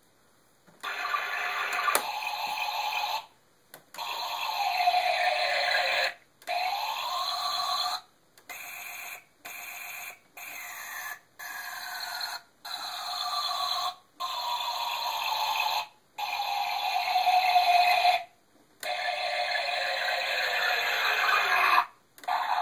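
Circuit-bent toy washing machine's sound chip playing glitchy electronic tones in chopped stretches that cut off and restart abruptly every second or two, with the pitch sliding down, and now and then up, under the bender's speed and pitch control.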